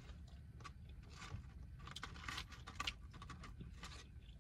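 Faint chewing of a burger, with a scatter of small wet mouth clicks and smacks spread unevenly through the pause.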